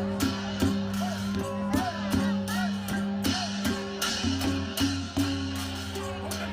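Music with a quick, steady drum beat over sustained pitched notes, matching an ozi (Burmese goblet drum) played along with backing music.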